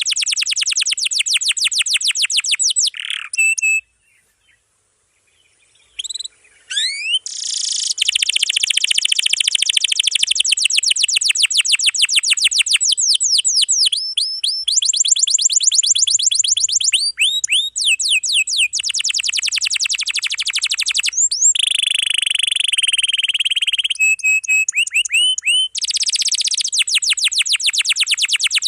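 Domestic canary singing long, rapid trills (rolls), each a fast run of the same high sweeping note repeated many times a second. The song stops for about two seconds near silence a few seconds in, then resumes with trills that change in pitch from one roll to the next.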